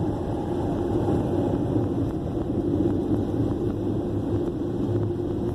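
Car wash Slimline dryer blowers running at full power: a steady, loud rush of air with a low, even hum underneath.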